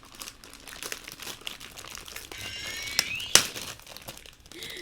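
Plastic parts bags crinkling and rustling as hands rummage through them for model-kit pieces, with many small clicks and one sharp plastic click about three and a half seconds in.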